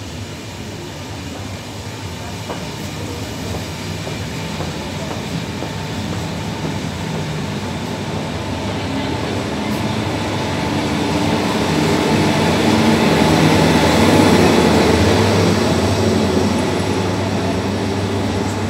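Corail Intercités passenger train moving past the platform as it pulls out, its carriages rumbling along the rails. The sound grows steadily louder, with a steady hum from the BB 15000 electric locomotive pushing at the rear as it draws near, loudest about fourteen seconds in.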